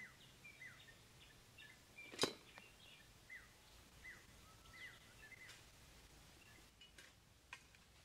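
A small bird chirping over and over, short falling chirps about one a second. One sharp click about two seconds in, and two fainter ticks near the end.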